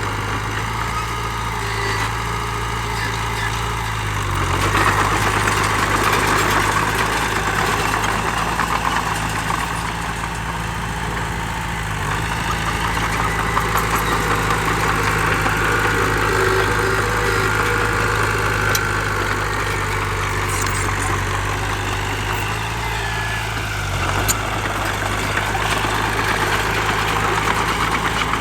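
Diesel engine of heavy earth-moving machinery running steadily at low speed, getting louder and harsher for a few seconds from about five seconds in.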